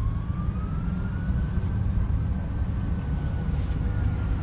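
A low, uneven engine rumble runs steadily, with a faint siren slowly wailing up and then back down.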